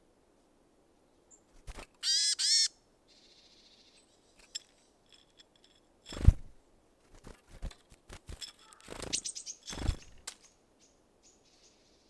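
Small wild birds at a feeder: a loud, harsh bird call with a pitch that rises and falls about two seconds in, then knocks, thumps and flutters from about six seconds on as birds land and peck at the feeder, the sharpest thump just after six seconds, with thin high chirps among them.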